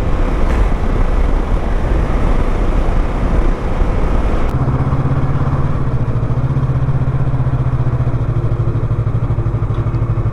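Motorcycle riding with wind rush over the engine, then about four and a half seconds in it comes to a stop and settles into a steady, evenly pulsing idle.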